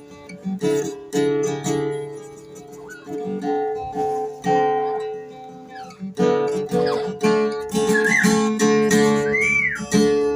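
Acoustic guitar music, plucked and strummed notes. Several rising-and-falling whistles sound over it near the end.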